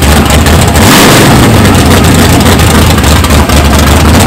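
Small-block V8 of a Chevrolet Malibu SS drag car running loudly at idle while rolling, with a brief rev about a second in.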